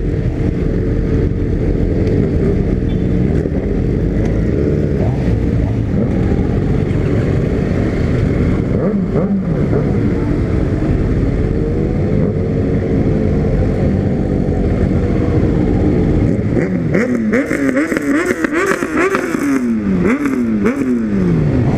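Loud Honda CB300 single-cylinder motorcycle engine running at steady revs while riding, then near the end revved up and down several times in quick blips, with sharp pops.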